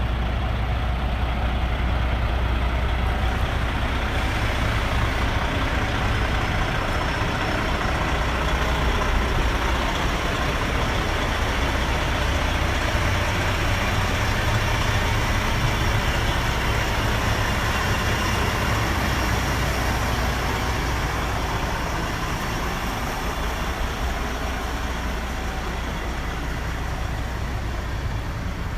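Diesel engine of a 2005 Freightliner Columbia 120 semi-truck running steadily.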